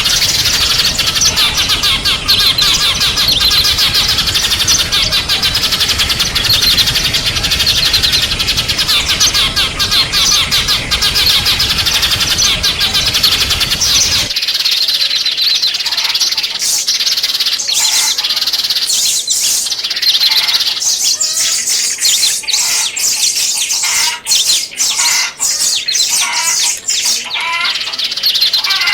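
Small songbirds chirping: a dense chorus of rapid high chirps over background noise, then, about halfway through, an abrupt change to a cleaner recording of separate short chirps and twitters.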